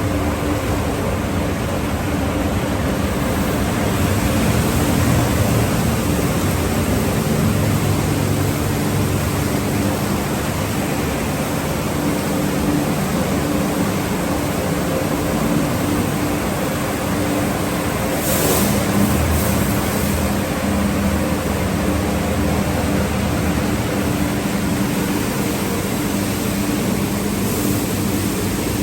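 Conveyor car wash tunnel machinery running: a steady rush of spraying water and equipment noise with a low motor hum underneath, and a brief sharper hiss about two-thirds of the way through.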